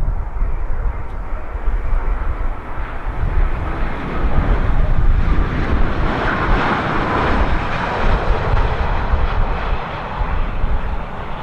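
Boeing 787-8 jet airliner's engines on landing approach, the jet noise swelling as it passes about six to seven seconds in and then fading. Heavy, uneven rumble from strong gusty wind on the microphone runs underneath.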